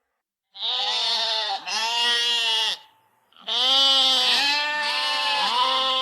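Goat bleating: two long, quavering bleats with a short pause between them.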